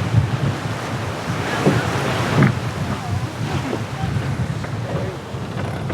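Wind buffeting the microphone and water rushing past the hull of a VO65 racing yacht under sail, a steady rushing noise with a low rumble.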